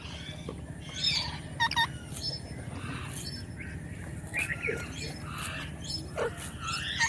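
Indian ringneck parakeet giving a series of short chirps and squawks, including a quick double note about two seconds in, over a steady low hum.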